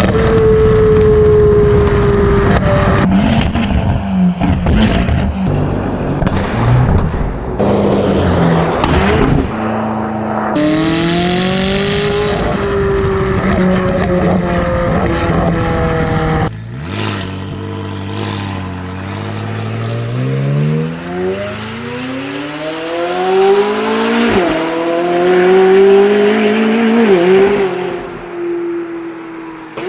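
McLaren 570GT's twin-turbo V8 running very loud through a straight-piped, decatted Larini exhaust. For the first half the note falls and wavers, with sharp cracks and pops. After a sudden drop in level, the note climbs in a long acceleration and drops sharply twice near the end as it shifts up.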